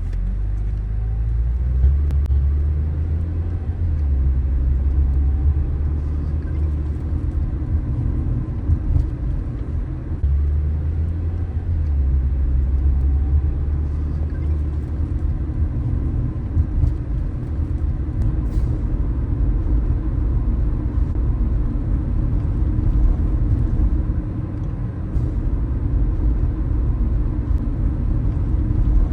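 Car driving along, a steady low rumble of engine and tyre noise on the road.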